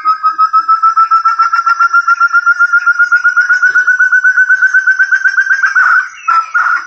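Forest partridge (burung terung) call, played as a bird lure: a long, rapid series of clear whistled notes, about ten a second, slowly rising in pitch and breaking off near the end.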